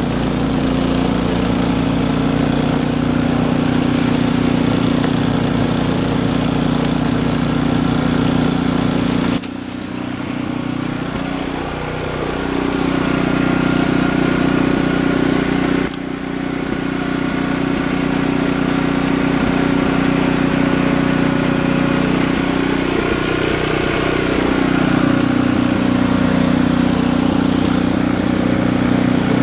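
Snowblower's small petrol engine running steadily. Its level drops suddenly twice, about a third of the way in and again about halfway, then builds back up.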